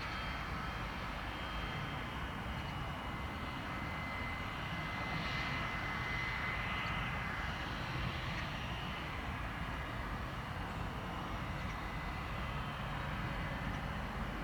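Gulfstream G600 business jet's twin turbofan engines: a steady jet rush with a high whine that grows louder about five to seven seconds in.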